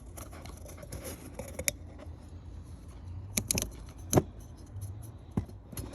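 Plastic oil filter cap and housing being handled and cleaned: a handful of sharp clicks and knocks, the loudest about four seconds in, over a low steady hum.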